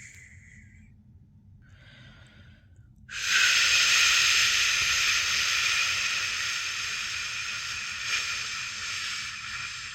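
A person shushing, 'shhh', to lull a newborn to sleep: the tail of one shush at the start, a short quiet shush about two seconds in, then a loud, long shush from about three seconds in that slowly fades.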